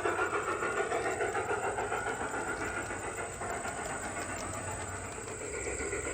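Garden-railway model train running along its track, getting quieter over the first few seconds as it moves off, with faint clicking from the rails.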